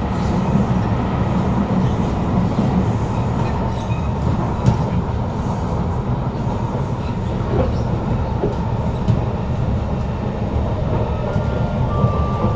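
Kawasaki Heavy Industries C151 metro train heard from inside the carriage while running between stations: a steady deep rumble of wheels on rail, a faint constant whine, and a few scattered clicks. Near the end a short, higher tone comes in briefly.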